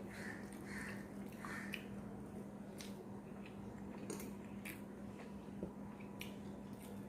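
Close-up eating sounds of a person chewing rice and curry: soft wet chewing and mouth noises, with a few sharp smacking clicks scattered through.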